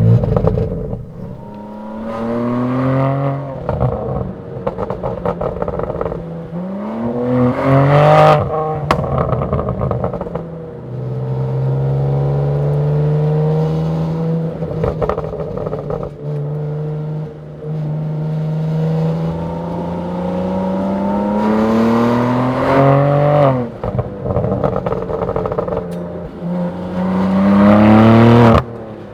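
BMW M3 Touring's twin-turbo straight-six accelerating hard through the gears: the engine note climbs in pitch again and again, each climb cut off by an upshift, with the longest pull near the end.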